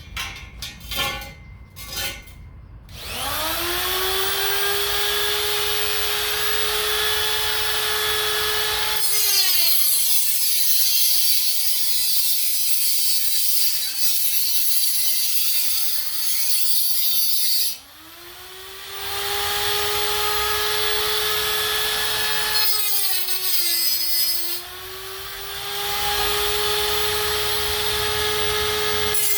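Electric angle grinder with a cutting wheel spinning up with a rising whine and running steady. For several stretches it bites into metal, giving a harsh grinding noise while the motor's pitch sags and wavers under the load. It stops about two-thirds of the way through, then spins up again and runs with a brief dip in pitch. A few knocks of metal being handled come before it starts.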